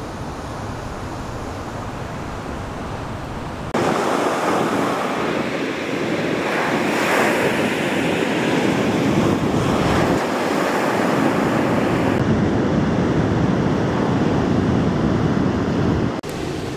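Ocean surf breaking and washing up on a beach, a steady rushing noise with some wind on the microphone. The surf cuts abruptly louder about four seconds in.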